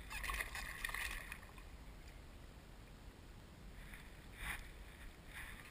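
Water splashing and lapping beside a fishing kayak, a longer splash in the first second and a few brief splashes later, over a steady low wind rumble on the microphone.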